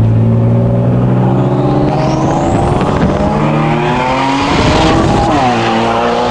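Turbocharged car engine accelerating hard, heard from inside the cabin. Its pitch climbs for about five seconds, and a thin whistle rises steeply partway through. Then comes a burst of hiss and a sharp drop in pitch as it shifts gear.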